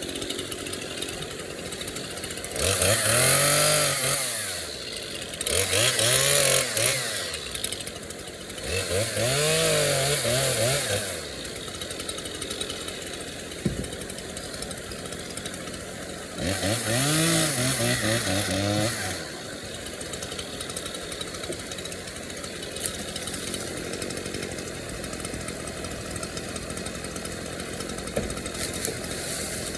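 Chainsaw idling and being revved up four times, each time rising to full speed for two or three seconds and falling back to idle.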